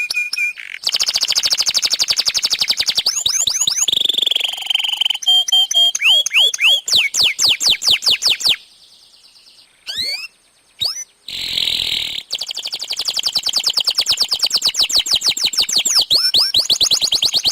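Domestic canary singing a long, vigorous song: rapid trills of repeated notes and fast runs of downward-sweeping chirps, with a buzzy stretch. The song breaks off briefly about nine seconds in, then the trilling starts again.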